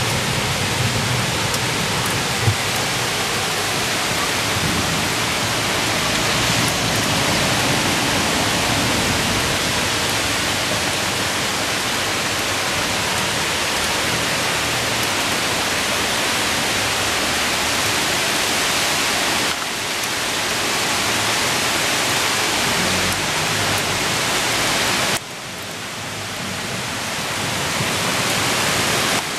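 Heavy rain pouring down on trees, leaves and a street: a dense, steady hiss. It drops suddenly about 25 seconds in, then swells back.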